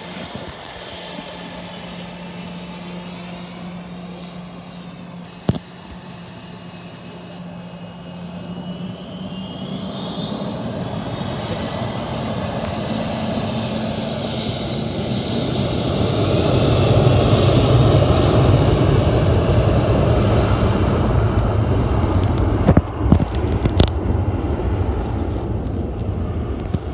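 Airliner engines at close range, a whine rising in pitch about a third of the way in and a broad rumble building to its loudest about two-thirds through, then easing. A few sharp clicks near the end.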